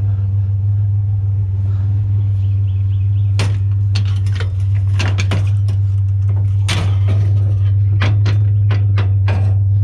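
Metal bed-frame rails being handled and dropped, giving a string of sharp metal clanks and clicks from about three seconds in, coming thickest near the end, over the steady low hum of an idling pickup truck engine.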